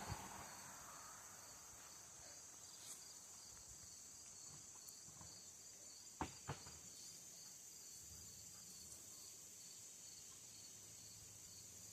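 Near silence: a faint steady high-pitched hiss with a fine pulsing in it, and two soft clicks about six seconds in.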